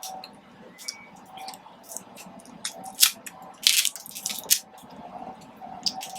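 Close-miked wet chewing and lip-smacking of someone eating soft-shell street tacos: irregular moist clicks and smacks, the loudest a few seconds in.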